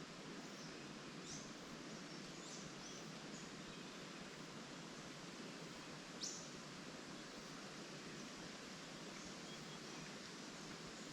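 Songbirds giving short high chirps over a steady hiss of leaves rustling in the wind; one chirp, about six seconds in, stands out louder than the rest.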